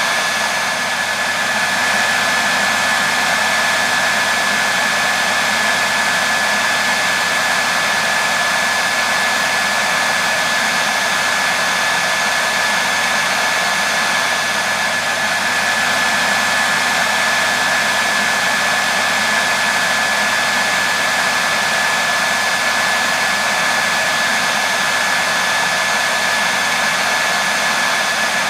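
Hair dryer running steadily, a constant rush of air with a high whine from the motor and fan. It is played as continuous white noise for soothing a baby to sleep.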